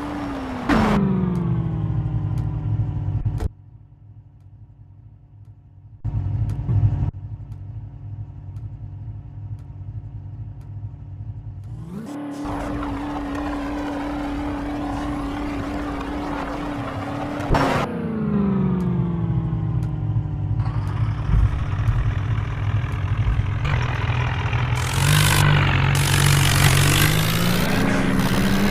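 A vehicle engine running, its pitch dropping sharply a second in, climbing again about midway and dropping again a few seconds later, with two abrupt cuts early on. Near the end it rises and falls amid louder rushing noise.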